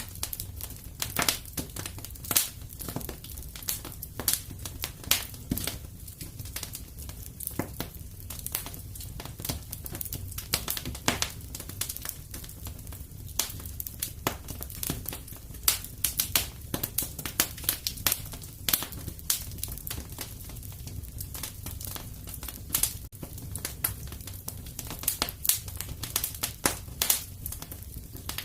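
Wood fire crackling in a fireplace, with irregular sharp pops over a low steady rumble.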